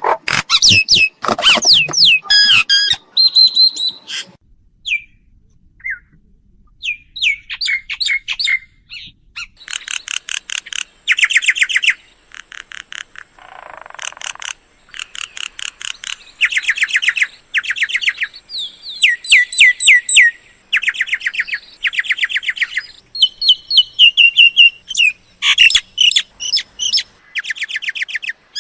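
Mynas calling: bursts about a second long of fast repeated chattering notes, mixed with whistled notes and a brief harsh squawk.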